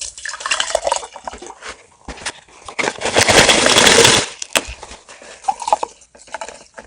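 Close-miked eating and food-handling noises: crackly clicks and crunching, with a loud, dense rustling-sloshing noise for about a second and a half in the middle.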